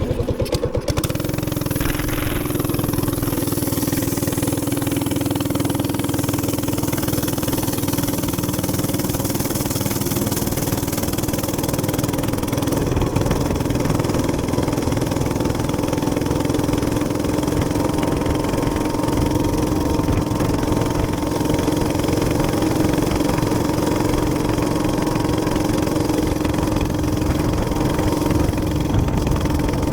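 Small gasoline minibike engine running steadily under load at cruising speed, with an even rush of wind and road noise over it.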